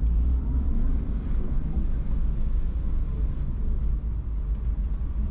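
Car engine and road noise heard from inside the cabin, a steady low rumble.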